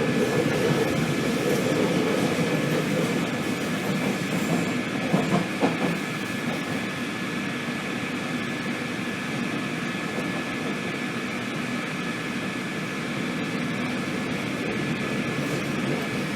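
Madrid Metro Line 5 train running through the tunnel: a steady rumble of wheels on rails with a constant thin high whine. A few knocks come about five seconds in, after which the running gets a little quieter.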